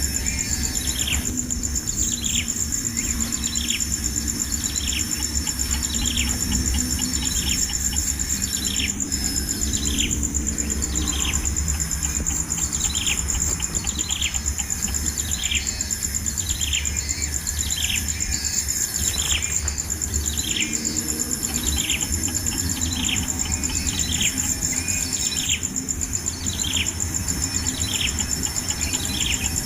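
A bird calling over and over, a short falling note about once a second, over a steady high insect drone.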